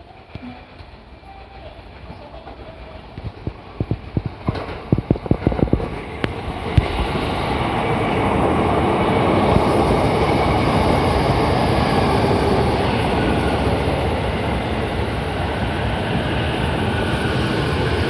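Sotetsu 12000 series electric train coming in, its wheels clacking sharply over rail joints, then a loud, steady running noise as it goes by.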